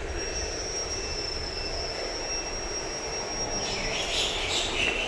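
Train on the station tracks with a steady high-pitched squeal that gives way to a hiss near the end.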